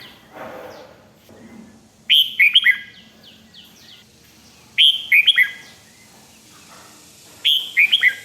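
Red-whiskered bulbul singing a short phrase of four or five quick, falling notes. The phrase comes three times, about every two and a half seconds.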